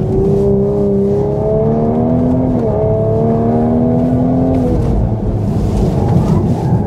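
A 2019 Toyota GR Supra's turbocharged 3.0-litre straight-six with an aftermarket exhaust, heard from inside the cabin, pulling hard with its pitch rising. The pitch drops at an upshift about two and a half seconds in and climbs again. Just before five seconds in the power falls away, which the driver puts down to the traction control cutting in.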